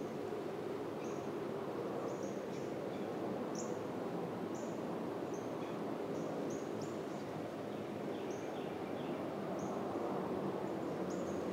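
A bird's short, high chip notes repeated irregularly, about one a second, over a steady low hum of outdoor background noise.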